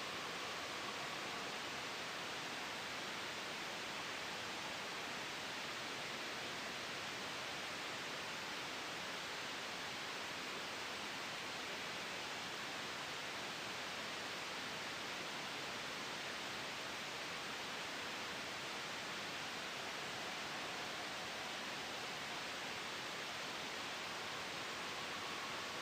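Steady white noise blended with a gentle wind sound, made for sleep and noise masking: an even, unchanging hiss.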